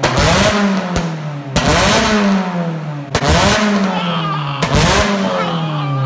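Honda S2000's F20C four-cylinder engine revved in quick throttle blips about every one and a half seconds, each snapping up sharply and then falling back. It runs through a home-built exhaust with new headers.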